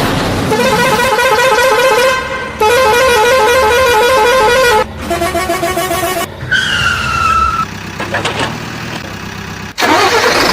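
Electronic horn sound effects from toy trucks' sound chips: a warbling, wavering horn tone, then a steadier lower tone, then a slowly falling tone, each starting and stopping abruptly.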